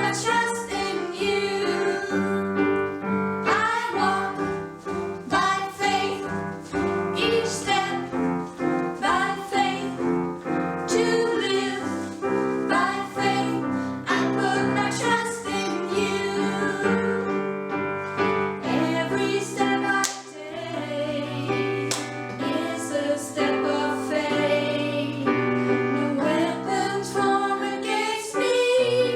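A Christian worship song with singing voices over a piano accompaniment.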